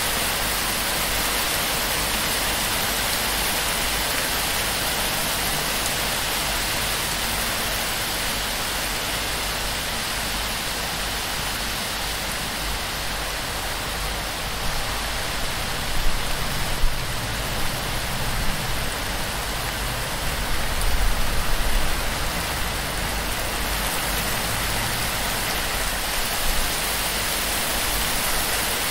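Heavy torrential rain drumming on a palm-thatch roof and pouring off the fronds, a dense steady hiss. It swells louder a few times in the middle, with low rumbling.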